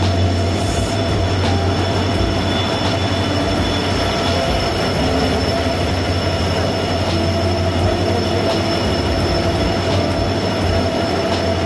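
Diesel-hauled passenger train pulling into a station along the platform: a steady loud rumble and rattle of the locomotive and coaches rolling past, with a thin steady high squeal from the wheels.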